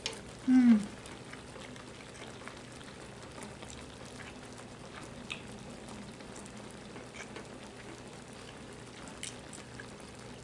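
A person eating a spicy stew: a short murmured "mm" falling in pitch about half a second in, then quiet chewing and scattered faint clicks of spoon or chopsticks.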